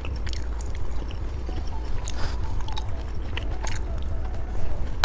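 Close-up mouth sounds of someone biting and chewing a dinosaur-shaped candy, with scattered small clicks and crackles over a steady low hum.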